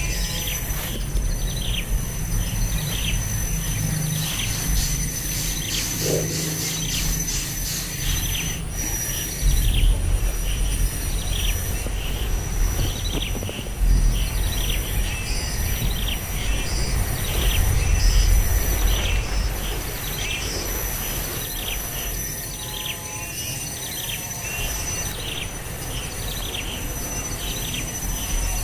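A small bird calling over and over in short falling chirps, about two a second, over a steady high insect drone and a low rumble that swells a few times.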